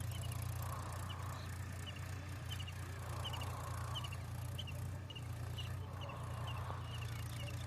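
Massey Ferguson 5245 4WD tractor's diesel engine running steadily as it pulls a cultivator, a constant low drone. Short high chirps recur about once a second over it.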